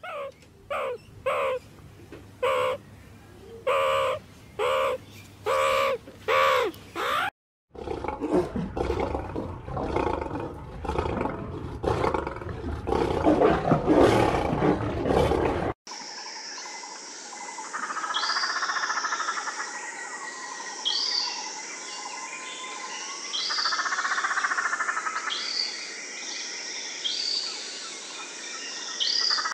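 A string of animal calls. First a meerkat gives about ten short, pitched calls in a row. Then comes a loud, rough roaring call from an animal in a wire enclosure, and last a peacock's two long, loud calls over repeated high chirps from small birds.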